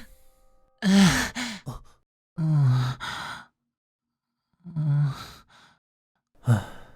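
A man's voice sighing and moaning four times, a second or so apart. These are the sounds of someone very drunk and feeling sick, close to passing out.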